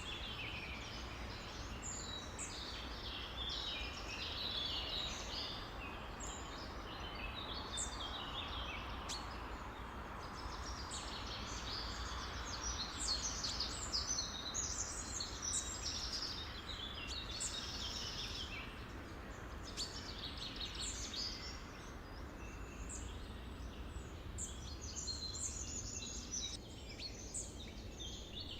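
A dense chorus of many songbirds chirping and trilling at once, overlapping calls throughout, over a steady low background noise.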